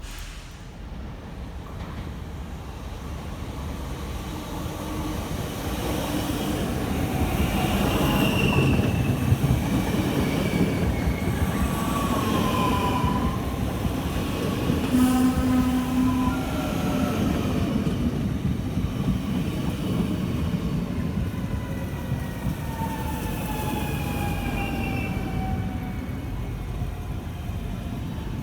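A train moving along the station tracks with a low rumble that grows louder over the first several seconds. High squealing tones from the wheels glide up and down over it, and some of them fall slowly near the end.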